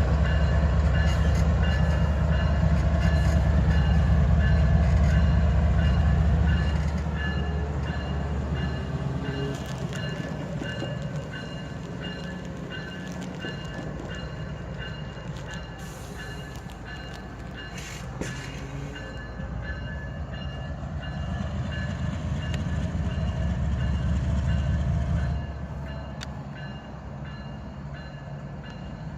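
GE diesel-electric locomotives working during switching moves: a heavy low engine rumble that eases off after about seven seconds, builds again for several seconds later on, and drops back near the end.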